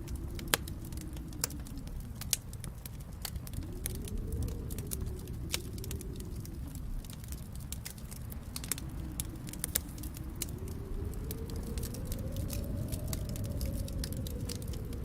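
Wood fire crackling, with irregular sharp pops, the loudest about half a second and two seconds in. Under it a low rushing wind swells and eases slowly, like a snowstorm outside.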